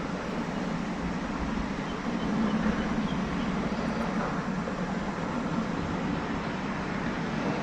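Steady rushing wind on the microphone, swelling a little about two and a half seconds in.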